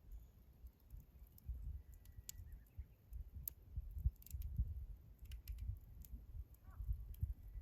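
Wood campfire crackling, with scattered sharp pops and snaps over a low, uneven rumble.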